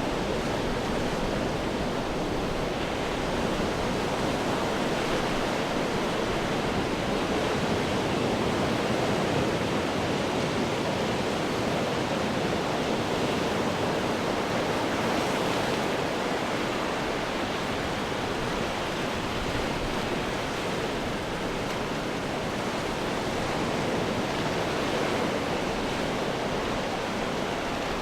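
Ocean waves crashing on rocks: a continuous rushing wash of surf that swells and eases only slightly.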